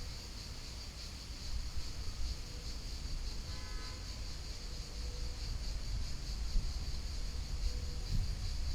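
Outdoor river ambience: a low rumble that swells and fades under a steady high hiss. A brief faint tone comes about three and a half seconds in.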